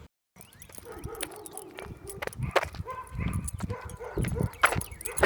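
A dog whining in a wavering tone for about a second, followed by scattered clicks, knocks and low thuds.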